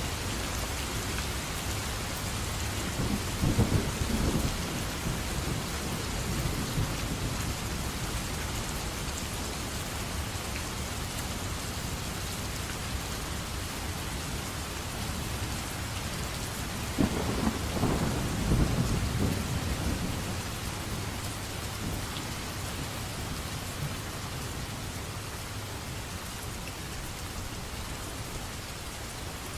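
Steady rain falling, with two low rolls of thunder: one a few seconds in, and a longer one a little past the middle.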